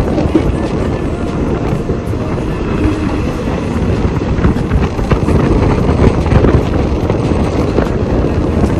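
Passenger train running at speed, heard from its open doorway: a steady rumble with a busy clatter of wheels on the rails, and wind buffeting the microphone.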